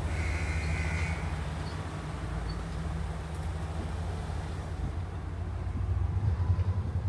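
Low steady rumble of motor vehicles running, growing louder in the last couple of seconds, with a brief high-pitched whine in the first second.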